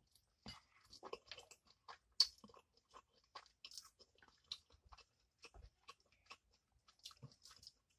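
A person chewing a mouthful of Indomie Mi Goreng instant fried noodles: faint, irregular wet mouth smacks and clicks, with one louder smack a little over two seconds in.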